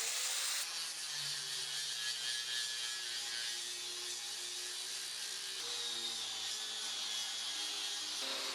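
A power tool running steadily, a dense high-pitched hiss over a faint low hum.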